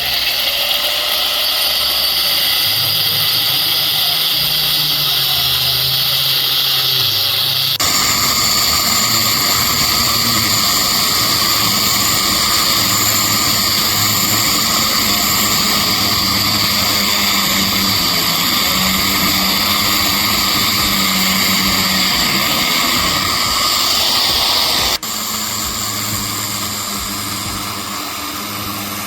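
Loud, steady machine noise, like a motor running, whose sound changes abruptly twice, about eight seconds in and again near twenty-five seconds.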